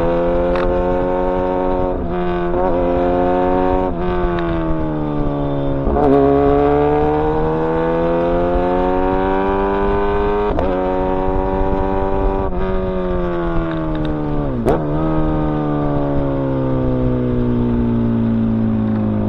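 Kawasaki ZX-10R inline-four sport-bike engine running under way, its pitch climbing and easing slowly, with short breaks in the note every few seconds as gears change. A quick dip and jump in pitch comes about three-quarters of the way through.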